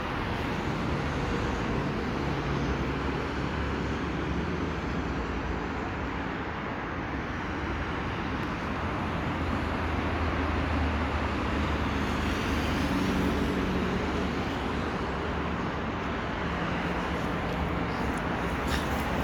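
Steady hum of road traffic, motor vehicles running continuously with no sudden events.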